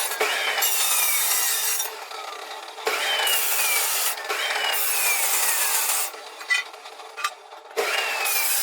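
A power tool grinding or cutting in repeated passes. Each pass starts with a harsh rasp and a whine that falls in pitch as the tool bites into the work; there are four passes with short lulls between them.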